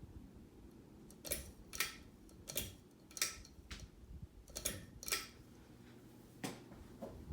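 A series of about nine short, sharp clicks at uneven intervals, over a faint steady hum.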